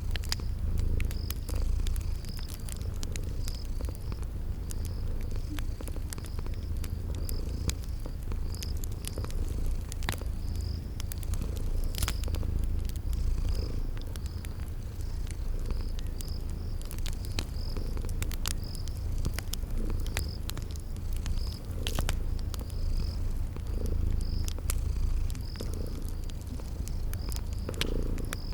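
Domestic cat purring continuously in a low, slowly pulsing rumble, with wood fire crackling in sharp scattered pops and crickets chirping in a steady high-pitched train behind it.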